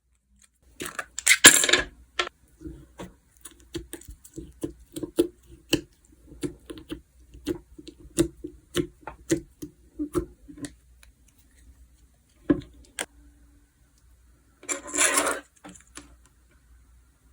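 Slime being played with by hand: a run of small quick pops and clicks as it is pressed and stretched, with a louder, longer noisy stretch about a second in and again near the end.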